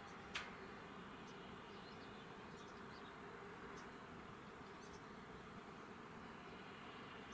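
Faint, steady outdoor ambience with scattered faint high chirps, and one sharp click about a third of a second in.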